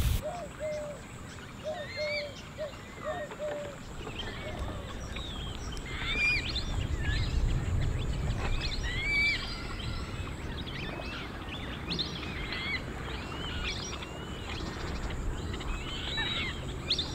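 Several wild birds chirping and calling, with many short high chirps overlapping, and a lower repeated call about twice a second during the first few seconds. A steady low rumble runs underneath.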